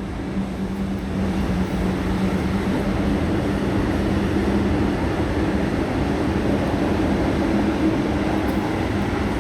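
A train hauled by two DB diesel locomotives passing close by, a steady engine drone over the rumble and rush of the train on the rails, holding an even level throughout.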